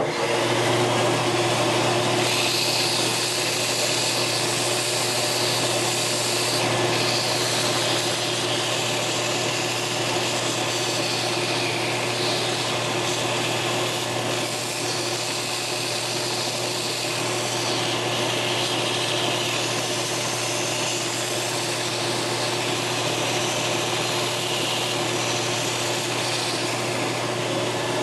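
Belt sander running: a steady motor hum under the rasp of an abrasive belt grinding a part. The rasp brightens and dims as the part is moved back and forth across the belt to smooth the surface and round its corners.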